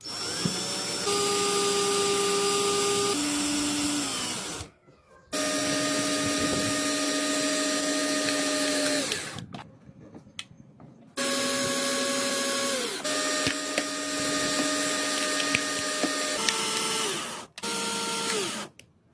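A small high-speed electric power tool running in four runs of a few seconds each, its pitch stepping up and down as the load changes and winding down briefly between runs.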